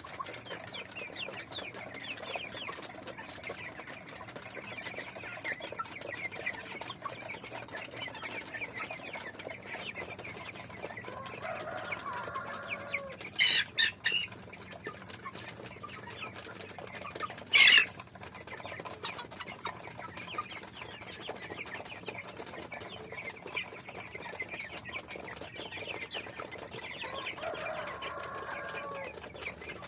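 Backyard chickens clucking and calling, with many short high chirps throughout and a few longer hen calls, about 12 seconds in and again near the end. Loud, brief, sharp sounds stand out: three in quick succession about 14 seconds in and one more about four seconds later.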